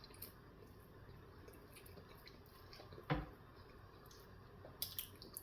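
Faint wet mouth sounds of someone eating a sandwich: small lip smacks and clicks, a few sharp ones near the end, with one louder low knock about three seconds in.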